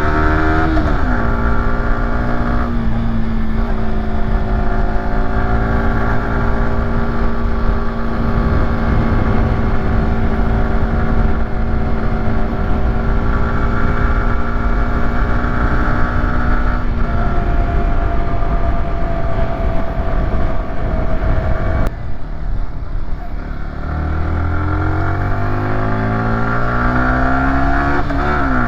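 Yamaha YZF-R125's single-cylinder four-stroke engine pulling uphill. The pitch drops with an upshift about a second in and then holds steady for a long stretch. Around two-thirds through the throttle eases off, then the revs rise again and drop with another shift near the end.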